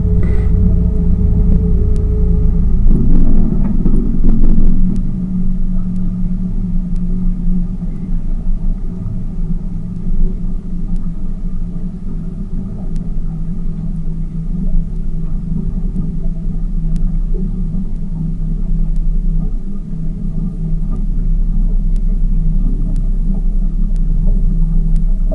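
Tour boat's motor running with a steady low rumble, swelling louder for a couple of seconds about three seconds in before settling back.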